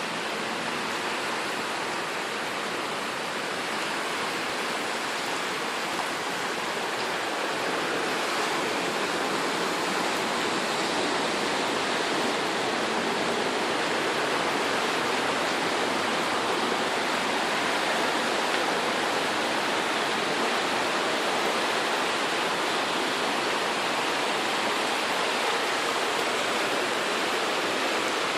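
Steady rushing of water from typhoon flooding, growing a little louder about seven seconds in.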